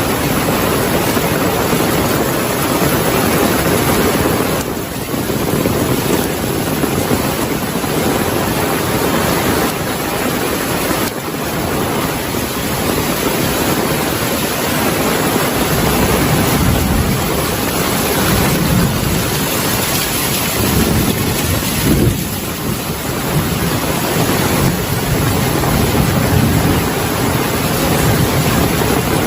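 Heavy rain falling steadily, with low thunder rumbles swelling underneath, stronger in the second half.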